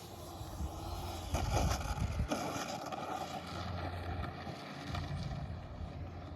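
Radio-controlled model airplane coming in to land, its motor heard under wind buffeting the microphone. There is a louder stretch of rumble and knocks about a second and a half in.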